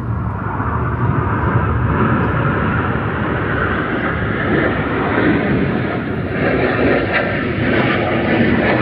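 Jet aircraft flying past, its engine noise steady and growing gradually louder.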